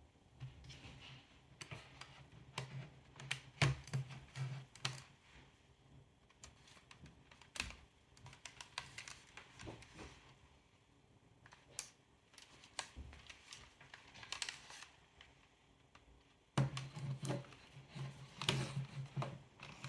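Irregular clicks, taps and rattles from handling a Sony Walkman WM-F2065 cassette player: its buttons and cassette mechanism being worked, with a low hum that comes and goes.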